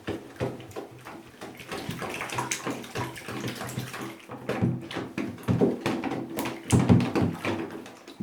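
Water sloshing and splashing with many small, irregular plastic clicks and knocks as used Lego pieces are hand-washed with a sponge in soapy water.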